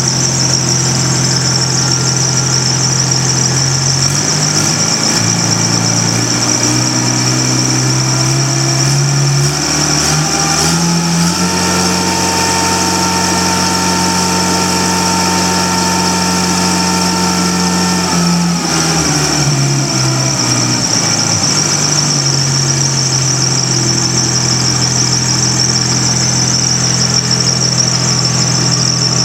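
Yanmar engine of a walk-behind concrete saw running at idle, revving up smoothly over several seconds, holding at high speed for about six seconds, then slowing back down to idle. A steady high-pitched whine runs throughout.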